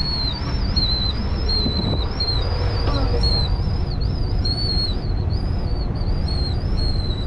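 Amtrak passenger train running, heard from on board: a steady low rumble of the car on the rails, with a high, wavering whistle-like whine over it.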